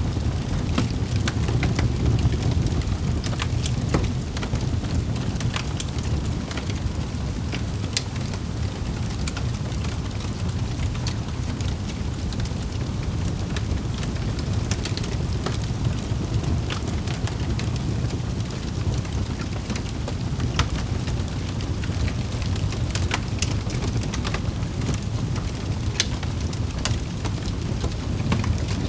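Wood fire crackling in a fireplace: sharp pops at irregular moments over a steady low rush.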